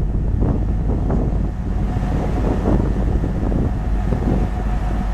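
Train hauled by a 2M62U diesel locomotive running past, a steady low rumble with irregular clatter through it, and wind buffeting the microphone.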